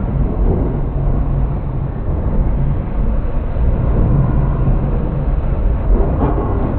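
Train passing through a subway station: a loud, steady low rumble.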